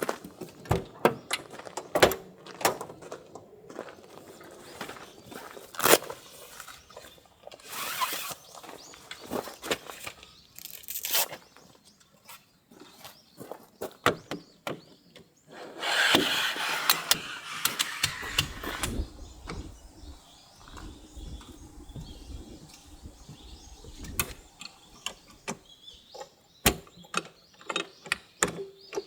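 Irregular clicks and knocks of objects being handled, with a longer stretch of rustling a little past halfway.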